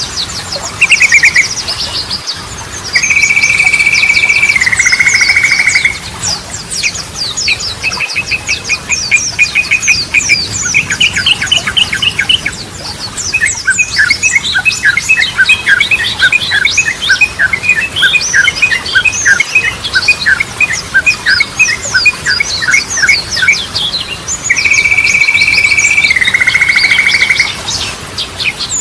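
Yellow-vented bulbul (trucukan) song: fast chattering and trilling phrases with high chips over them. About three seconds in, and again near the end, comes a long steady note lasting about three seconds that steps down to a lower pitch halfway through.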